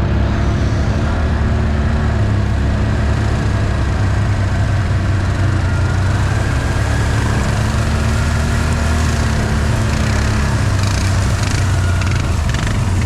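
Off-road vehicle engine running at a steady speed.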